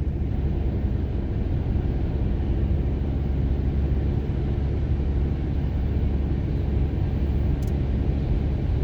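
Steady low rumble of a vehicle driving at highway speed, engine and road noise heard from inside the cabin.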